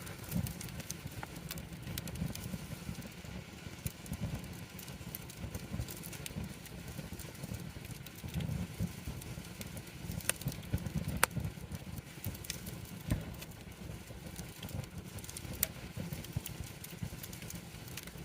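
Wood campfire crackling: scattered sharp pops and snaps over a low, steady rumble, with one louder pop about eleven seconds in.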